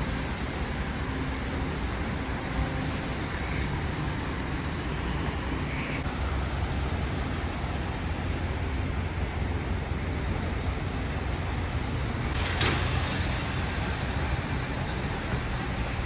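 Steady low rumble of a moving vehicle, heard from inside, with a short knock or rattle about twelve seconds in.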